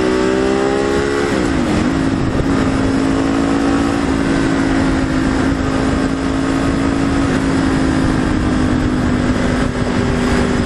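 Motorcycle accelerating, its pitch climbing, then dropping sharply about a second and a half in as with a gear change, then holding steady at cruising speed. Constant wind rush runs underneath.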